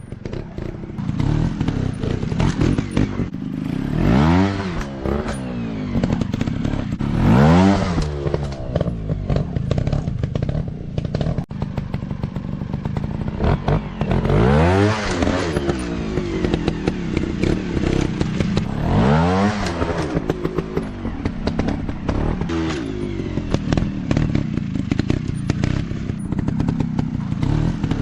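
Off-road dirt bike engine running and revving up hard several times, with short clicking and rattling throughout.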